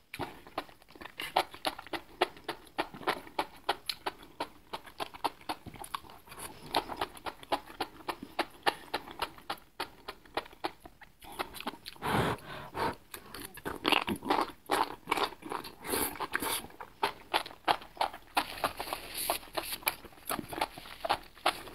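Close-miked eating sounds of a person chewing spicy enoki mushrooms: rapid wet mouth clicks and chews throughout, with a longer, louder stretch of sound about twelve seconds in.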